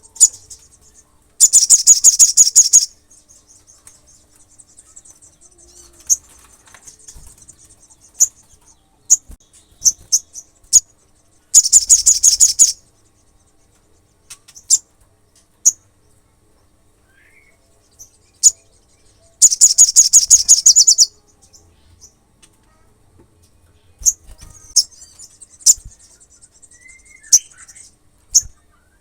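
Olive-backed sunbird singing: three loud, very rapid, high-pitched trills of about a second and a half each, separated by sharp single chirps and a faint high twitter.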